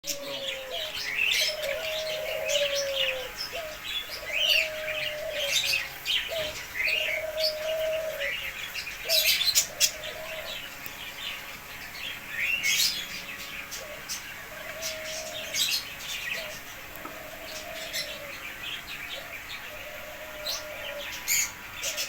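Cockatiels chirping and squawking throughout in many short calls, with a lower, steady note repeated about once a second underneath.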